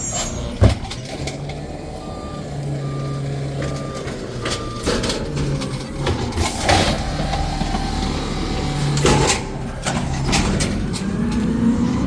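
Garbage truck engine running steadily while its backup alarm beeps four times in the first half. Sharp metallic knocks come through it, and a short hiss of air follows midway.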